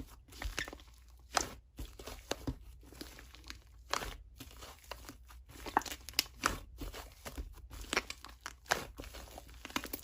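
Slime being worked by hand: irregular crinkly crackles and sharp pops, about one or two a second, as it is squeezed and stretched.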